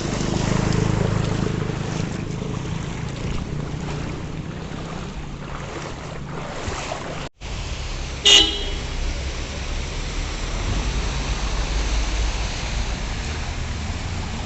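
Road traffic rumbling and hissing steadily, with one short, loud vehicle horn toot about eight seconds in, just after a sudden break in the sound.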